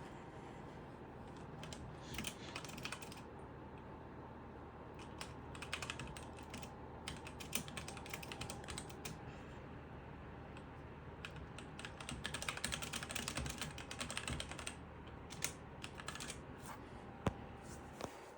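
Typing on a computer keyboard in several bursts of rapid key clicks, with short pauses between them and a single sharp click near the end, over a faint steady hum.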